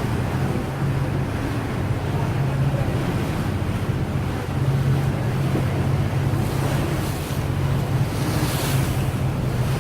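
Boat engine droning with a steady low hum, under wind buffeting the microphone and the rush of water alongside.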